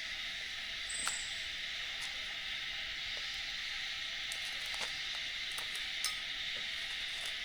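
Steady high-pitched hiss or drone, with a few faint clicks and ticks scattered through it.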